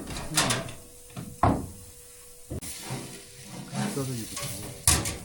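A few sharp knocks and clatters against a steady sizzling hiss, with low voices in between.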